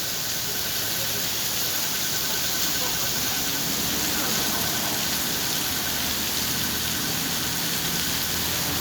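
Heavy rain pouring down on a city street: a steady, dense hiss. A low engine hum from nearby traffic comes in about a third of the way through.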